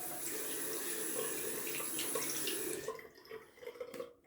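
Tap running into a sink, shut off about three seconds in, followed by a few faint knocks and drips.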